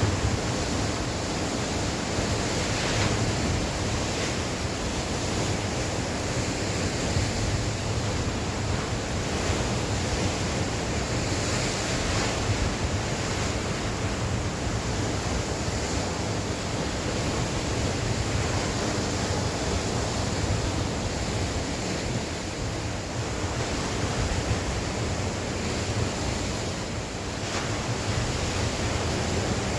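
Sea waves breaking and washing on the shore in a steady, continuous surge, with gusty wind buffeting the microphone as a low rumble.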